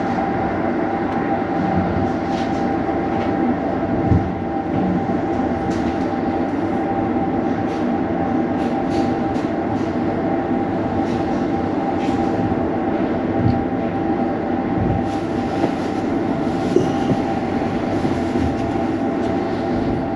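Vietnamese sleeper train running, heard from inside the carriage: a steady rumble of the moving train with a constant hum over it, and scattered clicks and knocks from the wheels on the track.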